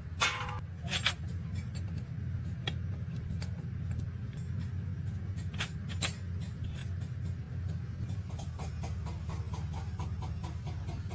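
Sharp metal clicks and knocks of hand tools and parts during truck gearbox repair, a few single strikes and then a run of small quick ticks near the end, over a steady low hum.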